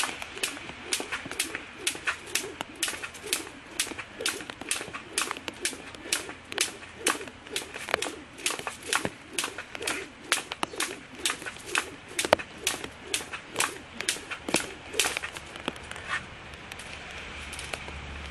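A jump rope slapping the ground in a quick, steady rhythm, each turn a sharp slap, stopping shortly before the end.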